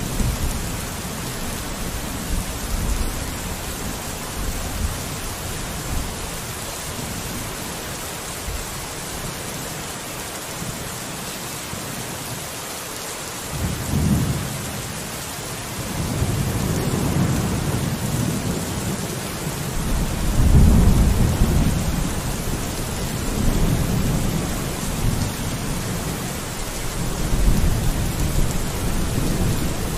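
Steady rain falling on a window, with low rolls of thunder rumbling through the second half, the loudest about two-thirds of the way in.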